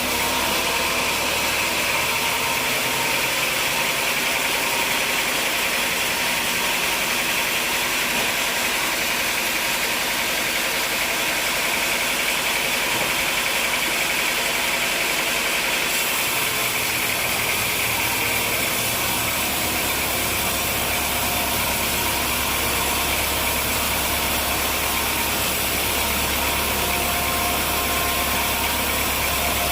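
Sawmill machinery running steadily with a continuous mechanical drone. A deeper low hum joins about two-thirds of the way through.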